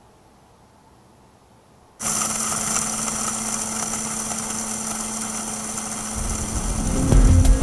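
Electric spice grinder motor switched on after about two seconds of quiet, starting abruptly and running steadily with a constant hum.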